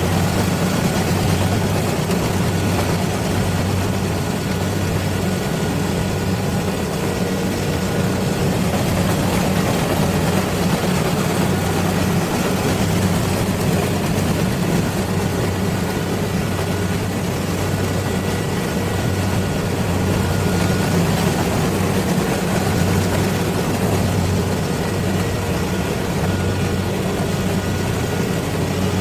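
Rice combine harvester running: a steady engine drone with a few faint, steady high tones over it.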